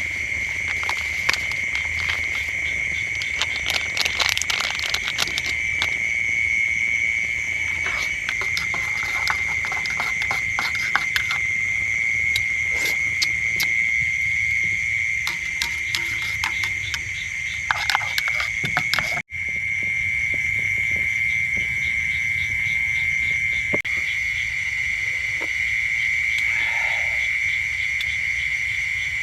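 Chorus of calling frogs and insects: a steady high-pitched trill that never lets up, with scattered sharp ticks and taps over it, mostly in the first two-thirds. The sound drops out for an instant about two-thirds of the way through.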